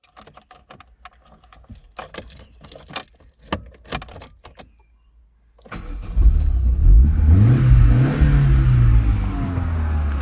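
A series of light clicks and rattles, then the Opel Astra F's 1.6-litre X16SZ four-cylinder petrol engine starts about six seconds in. It revs up briefly and drops back toward idle.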